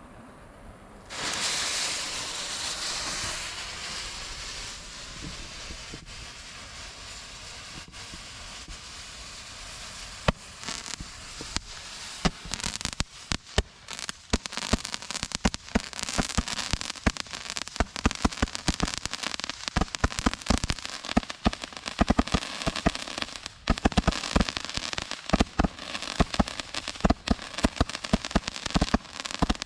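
A lit firework going off: a sudden hiss about a second in that slowly dies away, then rapid, thickening crackling and popping that carries on to the end.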